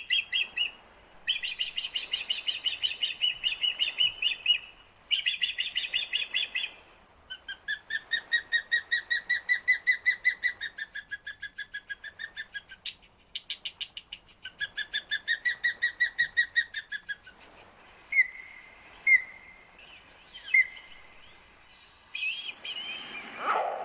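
A bird calling in several long series of rapid, high whistled chirps, each series lasting a few seconds. After about 18 seconds these give way to a few scattered chirps over a steady hiss.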